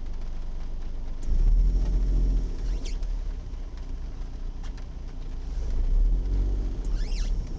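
Suzuki Jimny JA11's small three-cylinder turbo engine heard from inside the cabin, accelerating away on a wet road. Its low rumble swells about a second in, eases, and swells again around six seconds as it revs up through the gears.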